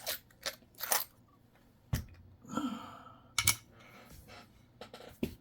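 Nickels being handled and set down: about half a dozen sharp clicks spread out, with a short scrape or rustle a little past halfway.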